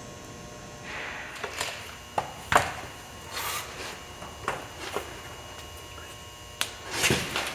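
Hand work fitting parts together: scattered clicks and knocks with short scraping, rubbing sounds. The sharpest knock comes about two and a half seconds in, and a longer scrape near the end.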